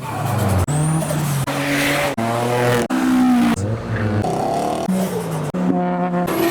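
Rapid montage of modified cars' engines and exhausts revving and accelerating, each clip cut off abruptly after half a second to two seconds, so the engine note jumps in pitch at every cut.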